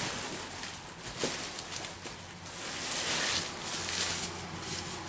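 Rustling and handling of packaging as a small bottle of oil is pulled out of a generator's box, with a short knock about a second in.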